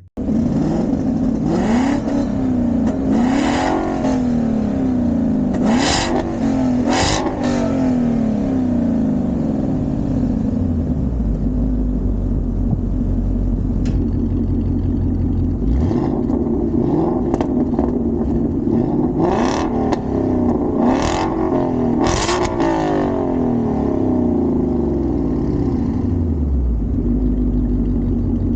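2021 Mustang GT's 5.0 V8 idling through a Borla ATAK cat-back exhaust, with a series of quick throttle blips: four in the first eight seconds, then three more close together about twenty seconds in.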